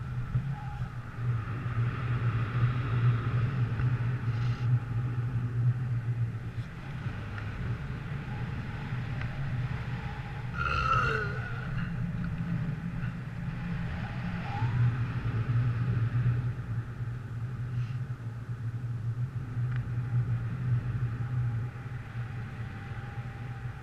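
A vehicle engine running with a low, steady drone that grows louder and eases off again a few times. About halfway through, a short wavering squeal rises over it.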